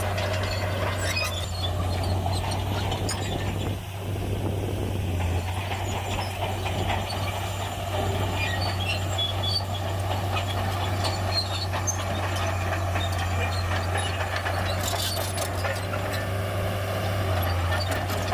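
Shantui bulldozer's diesel engine running steadily, with scattered squeaks and clanks from its steel tracks.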